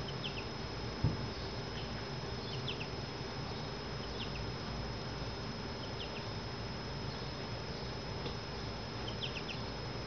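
Faint, high, short chirps of small birds, coming in quick clusters of two or three every second or two, over a steady hiss and a thin, steady high whine. One low thump about a second in.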